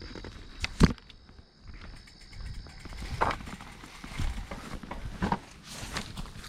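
Irregular scuffs, rustles and knocks from someone moving and handling things close to the microphone, the sharpest knock about a second in. Behind them is a faint, steady high trill of crickets.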